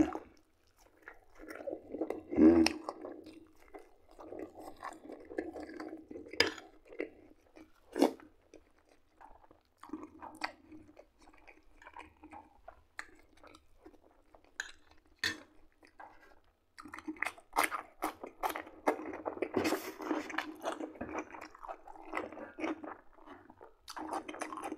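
Close-up chewing of a mouthful of buckwheat and liver patties, with wet mouth noises and a few sharp clicks. It goes quieter for a stretch in the middle and gets busier again later on.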